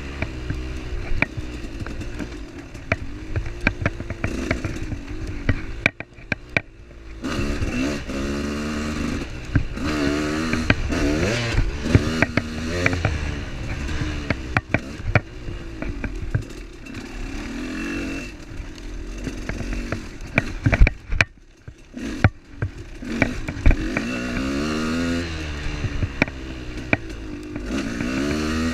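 Motorcycle engine revving up and easing off over and over, with short drops in level around six seconds in and again a little past twenty seconds, and scattered knocks and clatter throughout.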